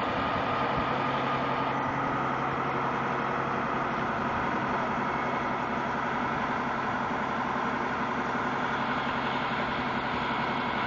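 Aerial ladder fire truck's engine running steadily at idle, with a steady low hum that sets in just after the start.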